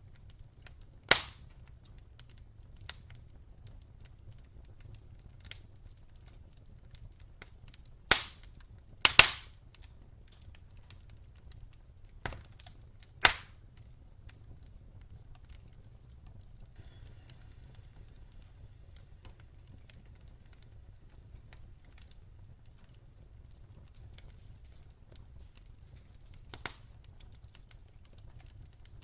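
Campfire crackling softly with faint ticks, broken by sharp, loud pops: one about a second in, a quick cluster around eight to nine seconds, two more around twelve to thirteen seconds, and a last, smaller one near the end.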